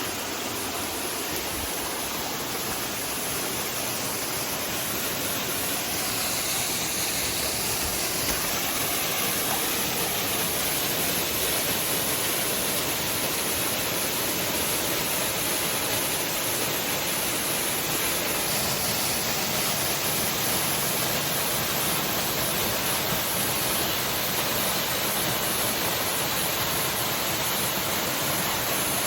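Small rainforest waterfall pouring into a creek: a steady rush of falling water that grows slightly louder over the first ten seconds or so, then holds.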